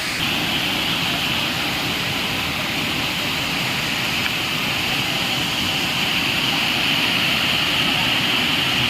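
Waterfall pouring, a steady rushing of water close by.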